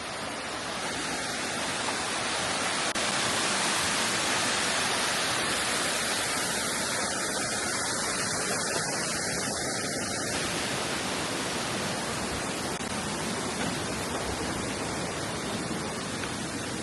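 Waterfall: a steady rush of falling water, swelling slightly a few seconds in.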